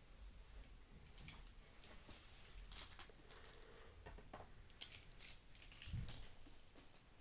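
Faint handling noises: scattered light clicks and taps, and a soft low thump about six seconds in.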